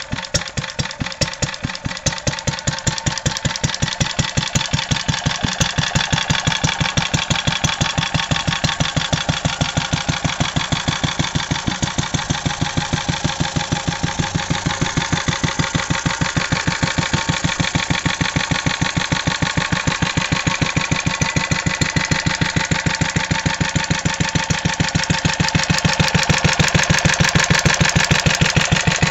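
1949 Lorenz EA510 4 hp stationary engine running steadily, with an even rhythm of firing strokes that grows a little louder near the end.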